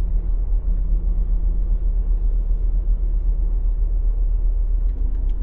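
Semi-truck diesel engine running at a steady idle: a continuous low rumble.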